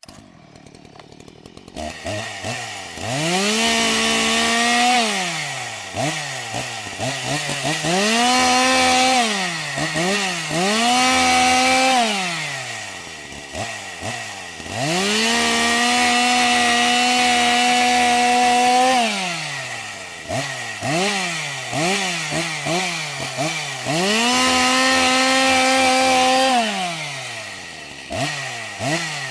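Chainsaw engine revving: the pitch climbs to full throttle and holds there for a few seconds at a time, then drops back toward idle. Between the long holds come quick short blips of the throttle. The cycle repeats several times.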